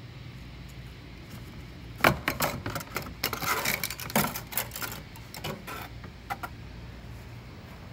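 A flurry of sharp clicks and rattling, about two seconds in and lasting some four seconds, over a steady low hum.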